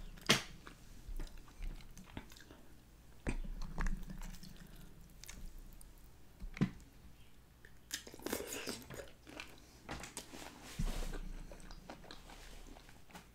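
Close-miked chewing of cooked shrimp and crab meat: soft wet mouth sounds with scattered small clicks.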